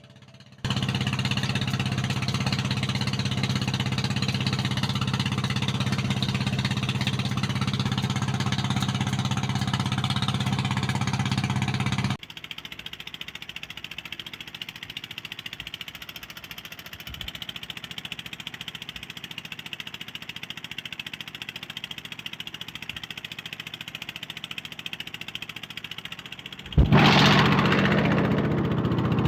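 An engine running steadily at idle, broken off abruptly about twelve seconds in by a quieter stretch of even hiss with a few faint knocks. The engine comes back loud and sudden near the end.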